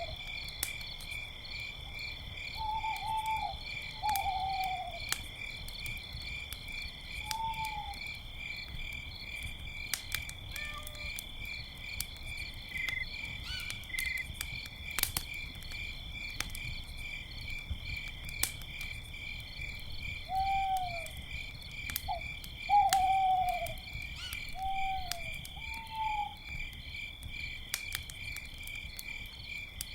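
Owls hooting in short falling calls, a few near the start and another cluster in the second half, over a steady pulsing chorus of crickets. The campfire crackles and snaps throughout.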